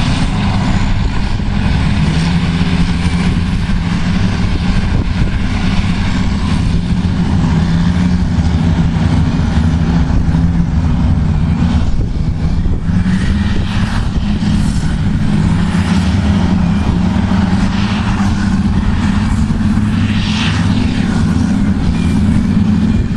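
Heavy diesel engines of Caterpillar wheel tractor scrapers running steadily while the scrapers load up, a deep, constant drone.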